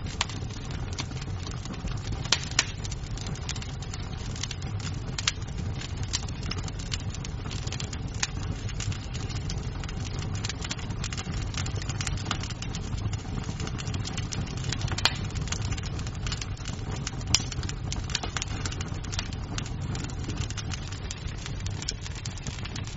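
Wood fire crackling in a fireplace: a steady low rumble of burning logs with frequent sharp pops and snaps, a handful of them louder, around two, five, fifteen and seventeen seconds in.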